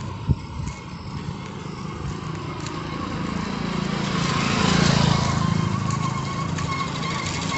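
A motor vehicle passing by, its engine and road noise growing louder to a peak about five seconds in, then fading.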